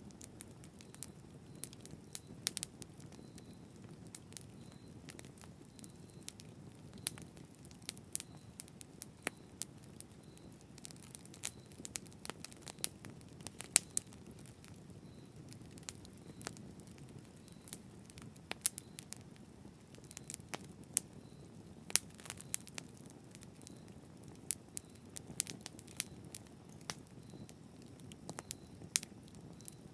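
A wood campfire burning, with a low steady rumble of flame and frequent irregular crackles and sharp pops of burning wood, a few of them much louder than the rest.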